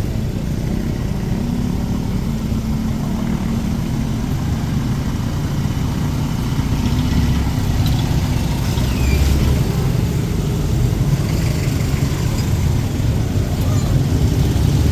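Street traffic: motor vehicle engines running at low speed nearby, a steady low rumble that grows a little louder about halfway through as a vehicle comes closer.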